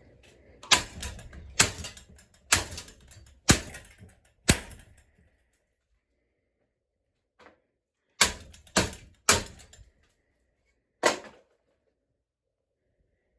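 A series of sharp bangs from a ceiling fan being smashed apart: five about a second apart, a pause, then a softer knock and four more bangs.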